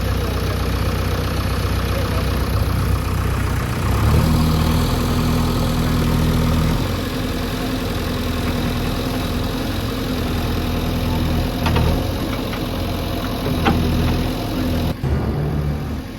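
Heavy-equipment diesel engine running steadily. Its note steps up about four seconds in and holds, with a couple of sharp knocks near the end.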